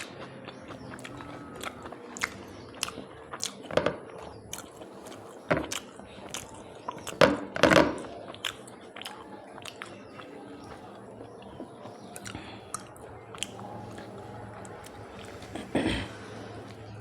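Close-up eating sounds: a person chewing and smacking their lips, with many sharp wet clicks. The loudest clusters come about halfway through and again near the end.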